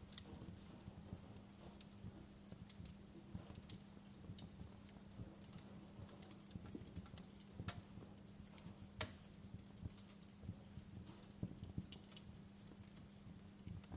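Wood fire crackling in a fireplace: irregular sharp pops and snaps over a low rumble and steady hum, the loudest pop about nine seconds in.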